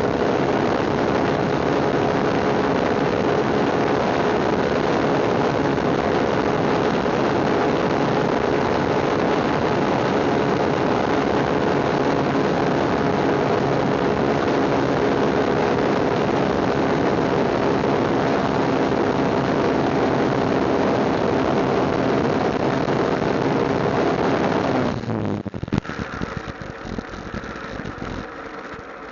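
Motorcycle engine running steadily while riding, with a thick rush of road and wind noise. Near the end the sound drops sharply and the engine is left idling more quietly.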